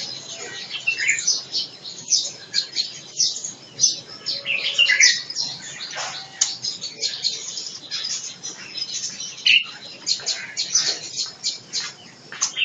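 Small songbirds chirping and calling, many short, high notes in quick succession.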